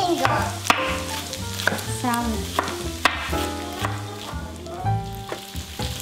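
Onions sizzling as they fry in oil in a pan, almost golden. A few sharp knife chops land on a wooden cutting board.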